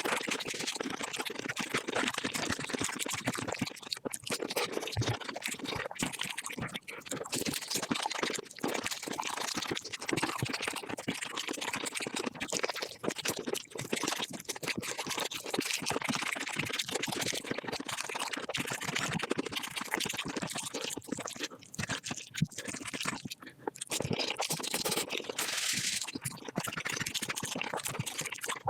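Close-miked eating sounds of chicken played back at five times speed: a dense, rapid stream of crunching, wet smacking and mouth clicks.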